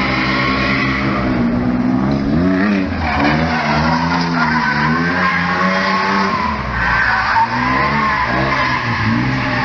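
Mercedes 190E's 3.6-litre AMG M104 straight-six revving up and falling back several times while the car drifts, with the tyres squealing.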